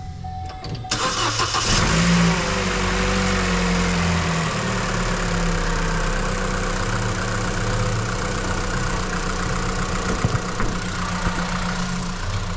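2015 Vauxhall Astra petrol engine cranking on the starter about a second in, catching and revving briefly, then settling into a steady idle. It starts now that the faulty ignition coil pack that was blowing its fuse has been replaced, curing the crank-no-start.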